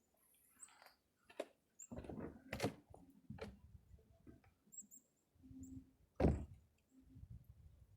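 Faint knocks and thumps of a house door being handled, opened and shut, the loudest thump about six seconds in.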